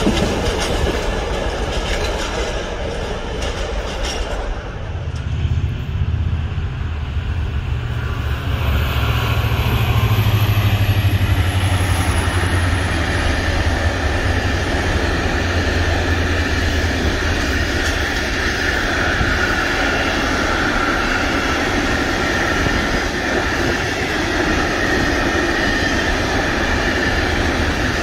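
A train passing on the rails. A heavy low rumble starts about five seconds in, then a steady rolling noise of the train on the track continues.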